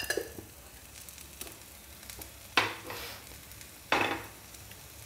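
Grated potato rosti frying in ghee in a non-stick pan on a low flame: a faint, steady sizzle. Two short knocks stand out, about two and a half and four seconds in.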